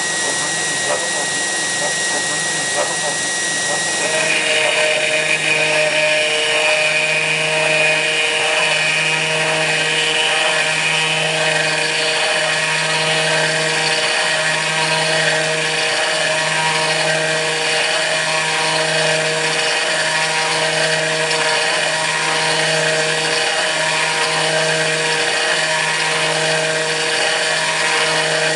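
Kress FME-1050 router spindle on a hobby CNC machine running at speed and milling aluminium. About four seconds in the sound changes and grows a little louder, and after that a low hum swells and breaks off in an even rhythm of about one pulse every second and a half.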